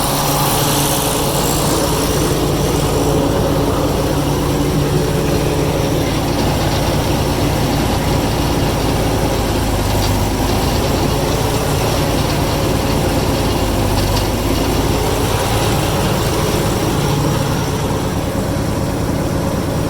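Heavy-equipment diesel engine running steadily at a low, even pitch.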